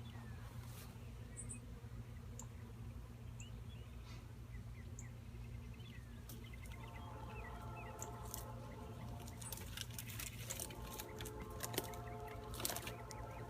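Honeybees buzzing around a swarm being moved into a box, with a steady low hum. About seven seconds in, a louder, pitched buzz comes in and builds, as of bees flying close by. There are scattered bird chirps and a few light clicks.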